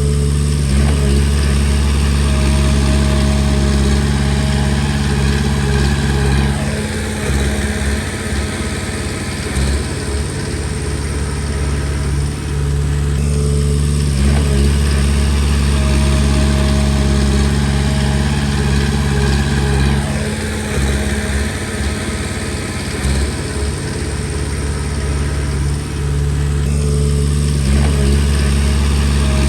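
Diesel engine of a Komatsu D20P crawler bulldozer running under work, loud and continuous. Its note alternates about every six to seven seconds between a steady hum and a rougher, uneven sound as the load changes through the pushing cycles.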